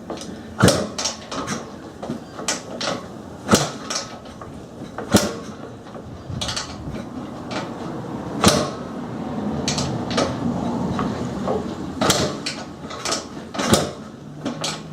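Kickstarter of a 1980 Husqvarna CR390's single-cylinder two-stroke engine being kicked over again and again: a series of irregular mechanical clunks and clicks, with the engine not firing.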